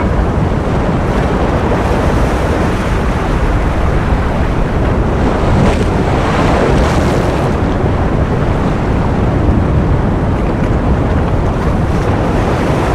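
Ocean surf: a steady wash of breaking waves, swelling slightly about halfway through.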